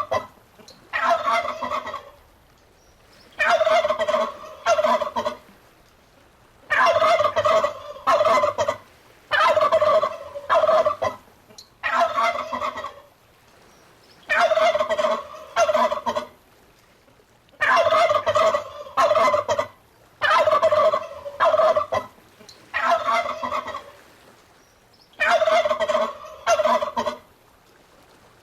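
Turkey gobbling over and over, one loud rattling gobble every two to three seconds with short pauses in between.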